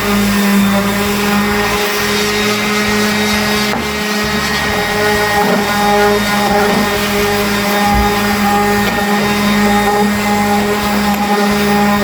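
An electric motor running steadily with a constant hum and overtones over a broad whir, typical of a shop machine or vacuum running.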